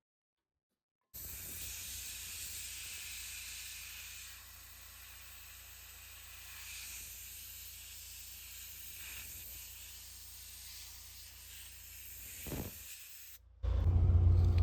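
Air-powered siphon-feed spray gun spraying: a steady hiss that starts about a second in and stops shortly before the end. Near the end a loud low hum cuts in suddenly.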